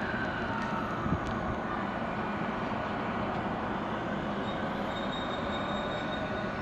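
Electric train moving through a station platform with a steady rumble. Its motor whine falls in pitch over the first second or two, and a faint rising tone comes in near the end.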